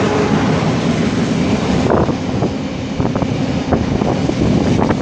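Class 66 diesel freight locomotive and its wagons passing close by: a steady, loud rumble of wheels on rail, with a few sharp clacks over rail joints from about two seconds in.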